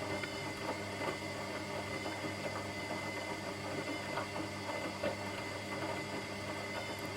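Washing machine running: a steady hum with a thin, constant high tone over an irregular, busy rattle.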